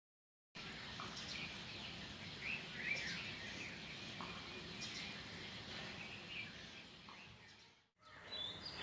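Birds chirping faintly, short high chirps scattered over faint steady outdoor background noise. It starts about half a second in and drops out briefly near the end.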